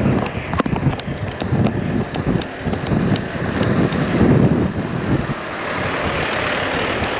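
Heavy truck running, a low rumble with irregular knocks and clatter over the first few seconds, giving way about five seconds in to a steadier, even rush of engine and wind.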